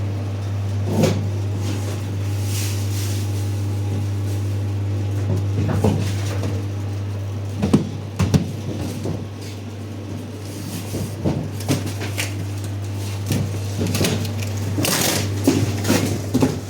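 Scattered knocks and clatter of hard objects being handled and set down, over a steady low hum.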